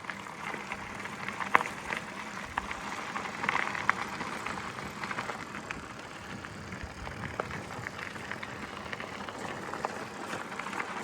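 Gravel bike coasting downhill on a dirt road: a steady crunch of the tyres on gravel, with scattered small clicks and rattles.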